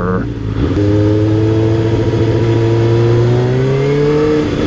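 Yamaha YZF600R's inline-four engine under way. There is a brief dip just after the start, as at a gear change, then a long, steady rise in pitch as the bike accelerates, over a constant rush of wind noise.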